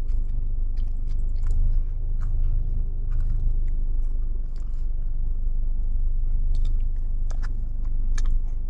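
A person chewing and biting into a caramel Biscoff ice-cream dessert with a crunchy biscuit topping: scattered crunches and mouth sounds over a steady low rumble.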